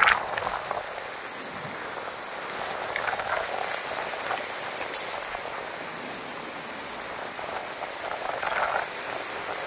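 Strong typhoon wind and heavy rain: a steady rushing noise that swells in gusts, with a sharp knock about five seconds in.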